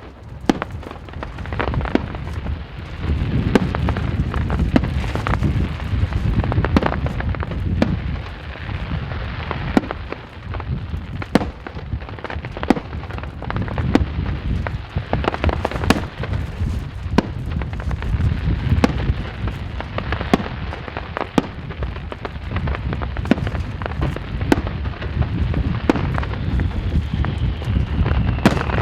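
Aerial fireworks display: a rapid, irregular string of sharp bangs from bursting shells over a continuous low rumble, with a falling whistle near the end.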